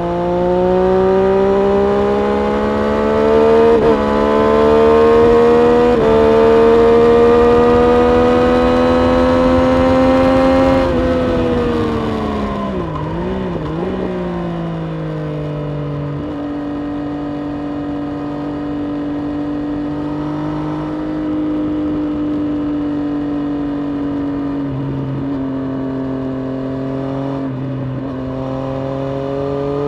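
Triumph Street Triple RS 765 inline three-cylinder engine heard from on board, pulling hard through the gears with two quick upshifts. About eleven seconds in it drops in pitch under braking, with brief throttle blips on the downshifts. It then holds a steady mid-range drone and rises again near the end as the rider accelerates.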